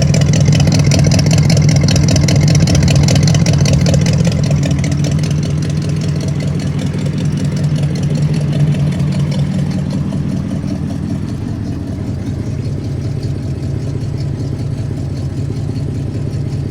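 1975 Ford F100's 302 V8 idling through Cherry Bomb glasspack true dual exhausts, with the uneven lope of a mild circle-track cam. It gets a little quieter about ten seconds in.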